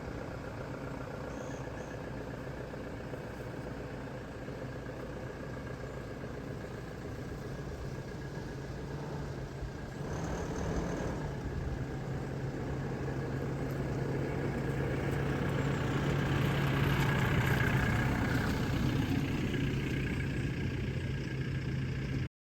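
Toyota Hilux's 2.4-litre diesel engine idling steadily just after starting. It steps up a little in pitch about ten seconds in and grows gradually louder toward the end.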